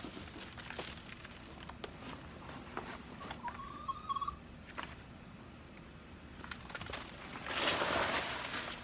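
Hands digging and rummaging through compost and soil in a container, with scattered small crackles and a louder rustling swell near the end. A short bird chirp about three and a half seconds in.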